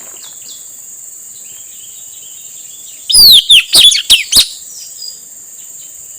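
Male blue-rumped parrot (nuri tanau) calling: a quick run of about six loud, sharp, falling high notes about three seconds in, after a few faint chirps. A steady high-pitched insect drone runs underneath.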